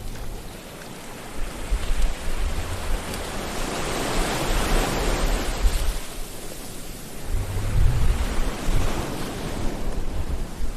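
Sea surf washing ashore: a steady hiss of breaking waves with a low rumble. One wave swells up near the middle and another comes in later.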